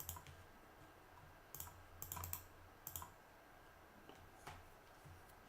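Faint computer keyboard typing: scattered keystrokes in a few short clusters, as a command is typed at a terminal.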